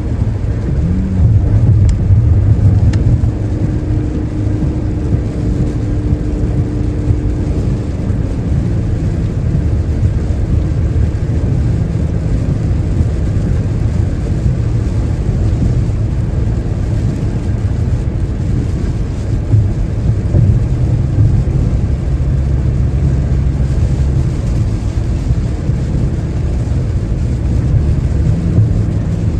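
Steady low rumble of a car driving at highway speed in rain, tyre and road noise on wet pavement, with a faint hum rising over it a few seconds in.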